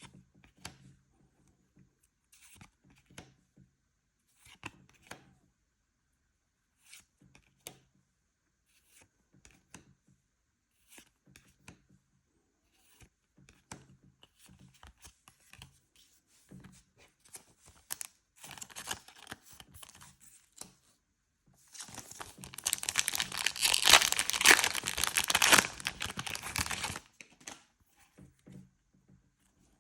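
Trading-card packaging being handled and torn open: scattered light rustles and clicks, then crinkling about eighteen seconds in and a loud stretch of tearing and crinkling lasting about five seconds near the end.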